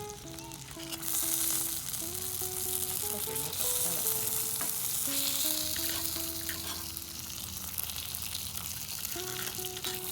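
Food sizzling and frying in a cast-iron skillet, the sizzle getting louder about a second in, over a simple background melody.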